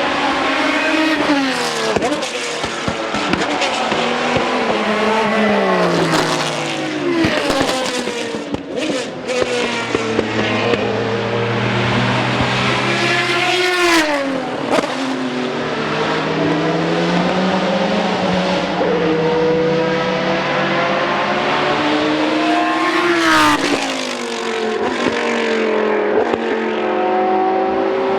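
Several GT race cars going past at speed, their engines revving through gear changes. The engine notes fall and rise over and over, with sharp climbs in pitch twice as cars accelerate.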